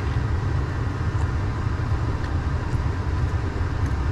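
Steady low engine rumble inside a parked truck's cab, with a few faint ticks over it.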